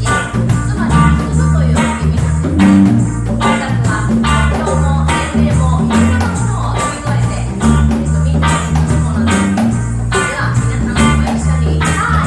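A live band playing a reggae song: plucked strings over a held bass line, with evenly spaced strokes keeping the beat.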